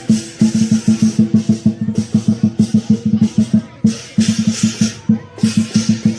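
Lion dance drum beaten in a fast, steady rhythm of about five strokes a second, with cymbals clashing in bursts of about a second each.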